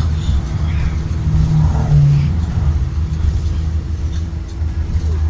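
2023 Blue Bird Vision school bus running on the road: a steady low engine and road rumble, with a brief rise in engine tone about a second and a half in.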